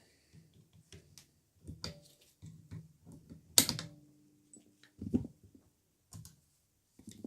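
Small metal parts of a miniature drill press clicking and knocking as they are handled during disassembly. About halfway there is one sharp metallic clink that rings briefly, and a duller knock follows a second later.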